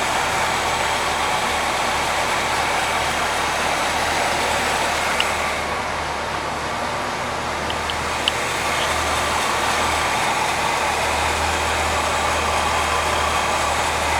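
1973 Chevrolet Corvette's V8 engine idling steadily after a cold start, a deep even rumble with a few faint ticks.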